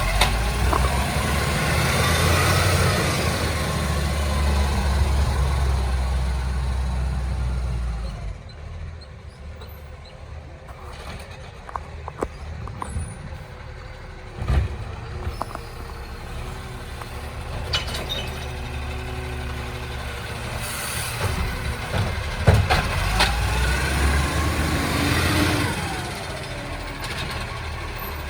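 Recycling garbage truck's diesel engine revving under load, likely driving the hydraulic bin-lift arm. It drops back about eight seconds in, with scattered clatter and knocks, then revs up again near the end.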